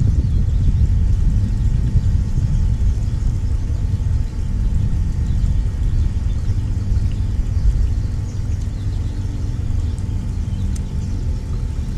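A loud, steady low rumble, with faint high chirps of small birds over it.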